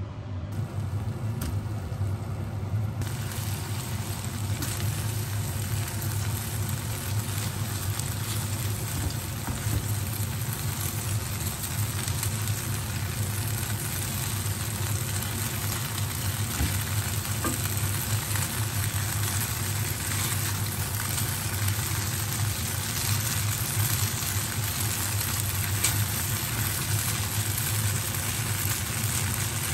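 Stir-fried noodles and cabbage sizzling in a frying pan as they are tossed with tongs, over a steady low hum. The sizzle comes in fully about three seconds in.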